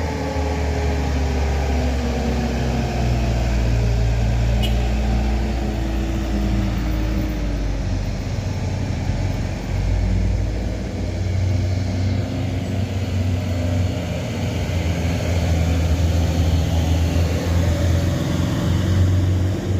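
Heavy truck's diesel engine running under load on a steep climb. Its pitch slides down over the first several seconds, then it runs on as a steady low drone.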